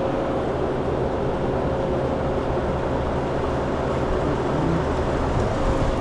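Remote condensing unit for a commercial reach-in refrigerator running steadily, its compressor and condenser fan giving a constant drone with a faint steady hum-tone. The system runs short of refrigerant, its low side pulling into a vacuum.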